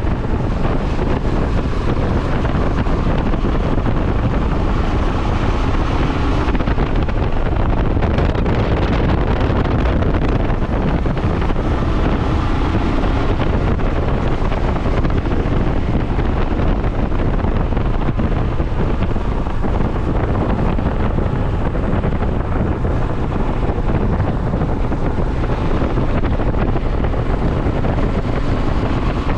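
Wind rushing over the microphone of a moving motorcycle, with the bike's engine running underneath, steady throughout.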